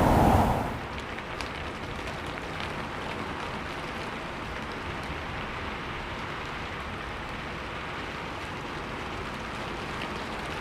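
Steady rainfall with scattered faint drop ticks. A louder rushing noise cuts off under a second in.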